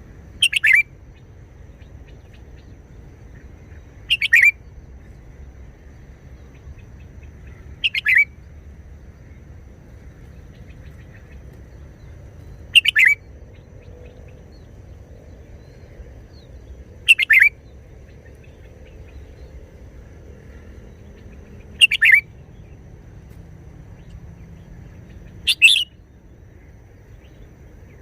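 Red-whiskered bulbul singing short, loud song phrases, seven in all, each about half a second long and repeated roughly every four seconds.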